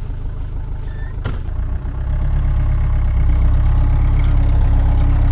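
A 4x4's engine running under load in sand, with a single knock about a second in; at about two seconds the engine gets louder and holds steady as it pulls.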